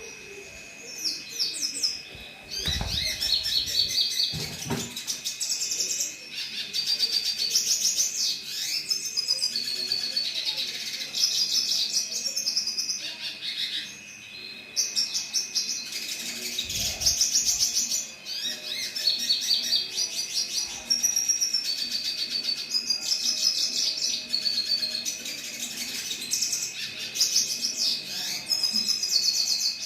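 Red siskin singing: a long run of fast, high twittering phrases, one after another with short pauses, over a thin steady high whine. A few low thuds a few seconds in and again about halfway.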